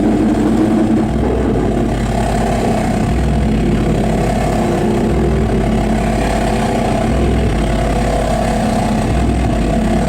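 Live harsh-noise performance: a loud, dense, engine-like drone with a low pulse about every two seconds.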